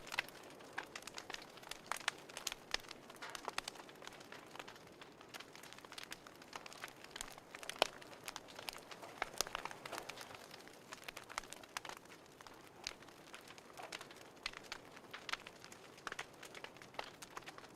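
Wood fire crackling in a fireplace: irregular sharp pops and snaps over a soft steady hiss, with the loudest pop about eight seconds in.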